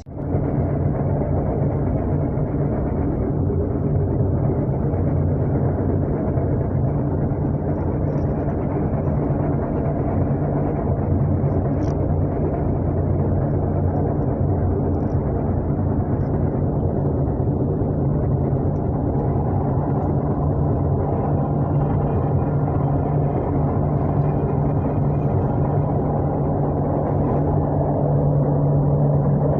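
Steady low engine drone of a running vehicle, unbroken and even, with a strong low hum.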